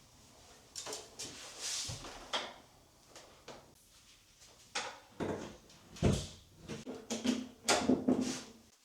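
Household handling sounds: a string of knocks, clacks and rustles as objects are moved about, busiest and loudest in the second half.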